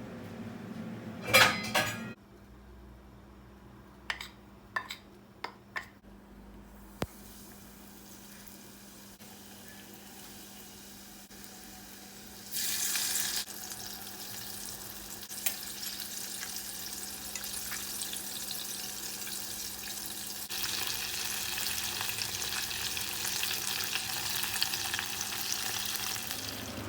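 Food sizzling and crackling in hot oil in a pan, getting louder about two-thirds of the way through. Before it come a short loud clatter about a second in and a few light clicks.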